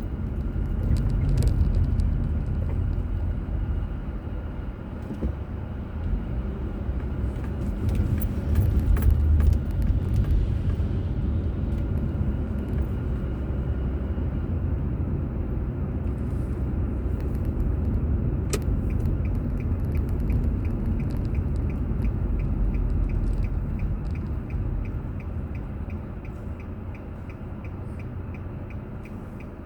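Car road noise and engine rumble from inside the cabin, easing off near the end. From about two-thirds of the way through, a turn-signal indicator ticks steadily.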